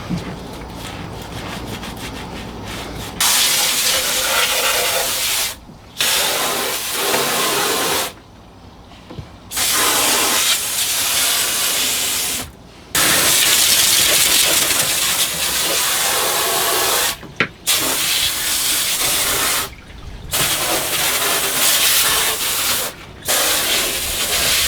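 Water spraying from a hose nozzle, rinsing the bilge and stringers, in repeated bursts of one to four seconds with short pauses between them.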